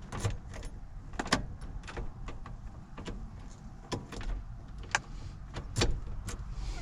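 Irregular clicks and knocks inside a truck cab as keys are tried and fiddled in the ignition switch.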